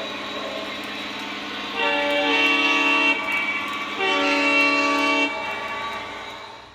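Lionel Legacy SD70ACE O gauge diesel locomotive's sound system sounding its horn: two blasts of about a second and a half each, the second starting about two seconds in after a short gap, over a steady low hum.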